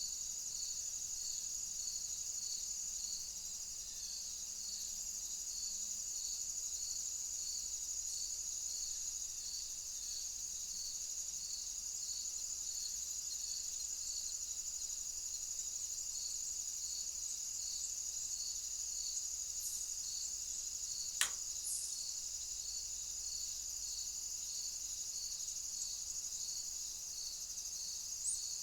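Steady high-pitched insect chorus, a continuous shrill drone with a regular pulsing chirp of about one and a half chirps a second. A single sharp click about two-thirds of the way through.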